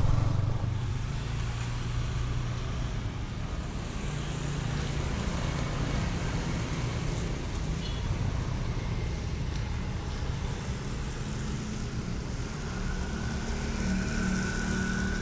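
Yamaha Vixion R motorcycle's single-cylinder engine running steadily while riding, mixed with wind and road noise; a steadier, higher engine note comes in near the end.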